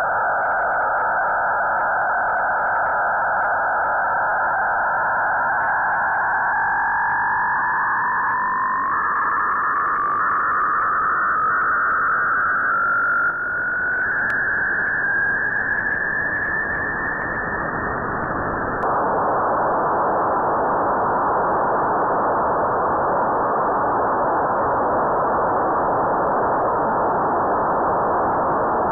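Single-sideband receiver hiss from an RTL-SDR tuned to the QO-100 satellite transponder, with a few faint steady whistle tones that slowly rise in pitch and drop out about two-thirds of the way through, leaving only the hiss.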